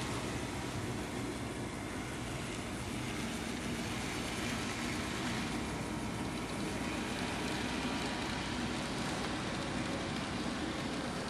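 N-scale model train running along the layout's track: a steady whirring rumble of motor and wheels on rail.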